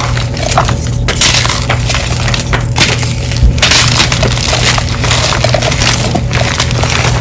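Dyed gym chalk blocks being crushed, a dense, continuous crunching and crumbling made of many small cracks, with a steady low hum underneath.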